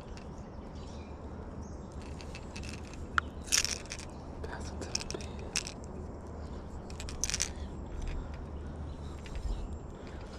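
Scattered light clicks, scrapes and rattles of a caught smallmouth bass and a lure's metal hooks being handled, over a steady low background.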